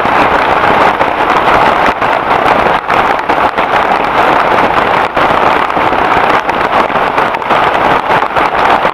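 Heavy rain falling hard and steadily, a dense unbroken hiss.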